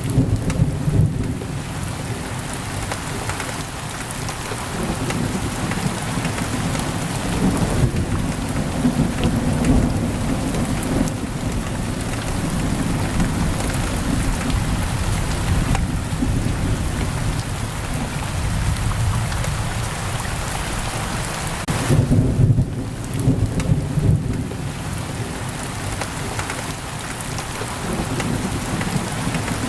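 Heavy rain pouring steadily on a window, with low rolling thunder rumbling underneath that swells at the start and again about 22 seconds in.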